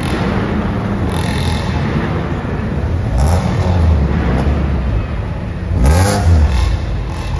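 Rally car engine idling and being blipped, its revs rising and falling sharply twice, about three seconds in and again about six seconds in.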